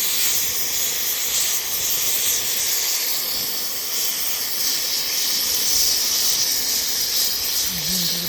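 Oxy-fuel gas cutting torch hissing steadily as it burns through a steel excavator track chain link.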